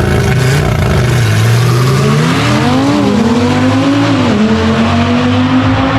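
Car engine accelerating hard through the gears: its pitch climbs, dips at a shift near three seconds, climbs again, then drops at another shift just after four seconds and holds steady.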